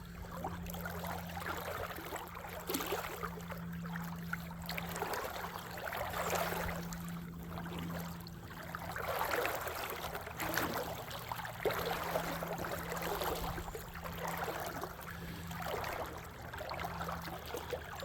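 Creek water running over rocks, rising and falling in surges every second or two, with a faint steady low hum underneath.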